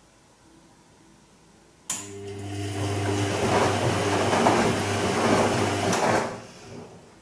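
Bosch Serie 2 Vario Perfect washing machine on its Silk programme, running in a short burst of about four seconds. It starts with a click about two seconds in, gives a steady mechanical hum under a rushing noise that builds, then stops with a click and dies away.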